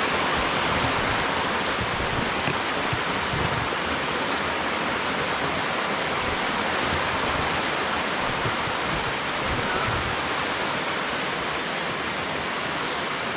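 Waterfall cascading down a rocky hillside, a steady, unbroken rush of falling water.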